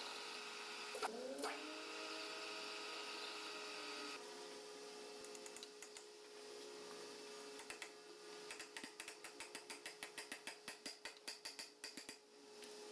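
Metal lathe running with a steady hum, faint. There are two sharp clicks about a second in, and later a run of quick light ticks, about four or five a second, lasting some four seconds.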